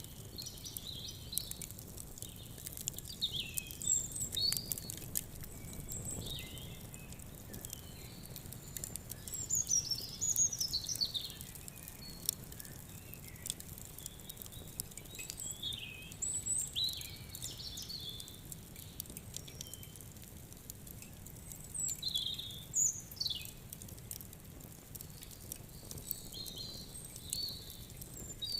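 Small songbirds chirping and singing in quick, high calls, over scattered sharp clicks of a crackling wood fire and a low steady background wash.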